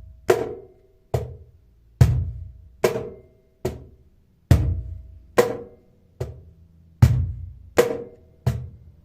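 Cajon played with the hands in a repeating three-stroke pattern: a deep bass stroke, then a sharp high slap, then a softer medium slap, about one stroke a second.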